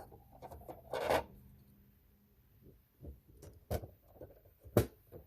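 Plastic toy parts being handled: a short rubbing scrape about a second in, then a few sharp clicks and taps.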